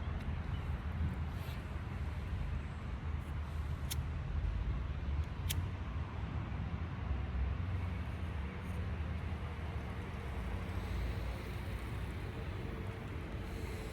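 Steady low outdoor rumble with no speech, broken by two sharp clicks about four and five and a half seconds in.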